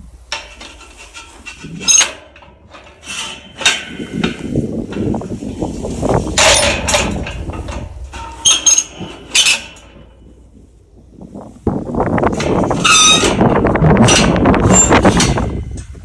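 Metal countryside gate being worked open and shut: a series of clanks and rattles of metal on metal, then near the end a longer stretch of scraping and rattling with a short squeal.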